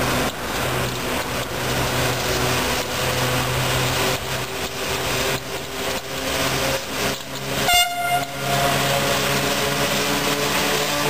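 FS class E655 electric locomotive hauling a freight train past at close range: a steady electric hum over the rumble and clatter of wheels on the rails, with a short horn toot about eight seconds in.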